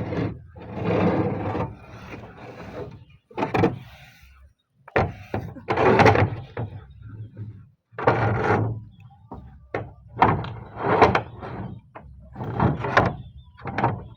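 Roof tiles scraping and rubbing against each other as they are slid and laid overlapping into place, in about eight separate scrapes with short gaps.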